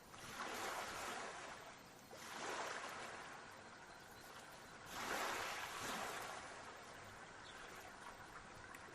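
Sea waves washing onto a shore, coming in slow surges that swell and fade, three times.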